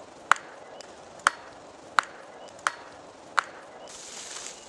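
A hand tool chopping into a small tree trunk: five sharp strikes about every three-quarters of a second, each with a brief ring, then a short rustle near the end.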